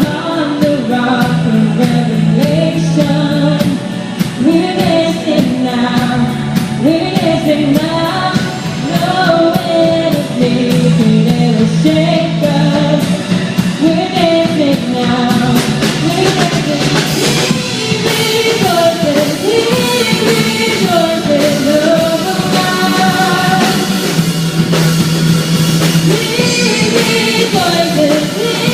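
Worship band music: voices singing over a band with a steady drum beat.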